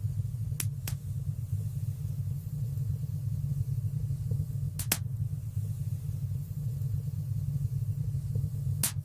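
Wood fire burning in a fireplace: a steady low rumble of flames with sharp crackling pops, two close together about a second in, one around the middle and one near the end.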